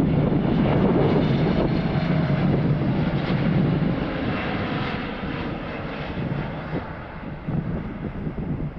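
Boeing 777 twin-engine jet passing on landing approach, its engines producing a loud rumble and hiss that fades away over the second half, with a faint whine slowly falling in pitch.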